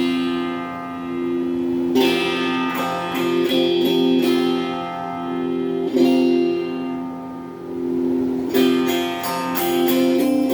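Donner Q1 HSS Strat-style electric guitar played through a small Cahaya amp with a phaser and hall reverb. Chords are struck near the start and again at about 2, 6 and 8.5 seconds and left to ring, with picked notes between them, and the sound swells and fades slowly.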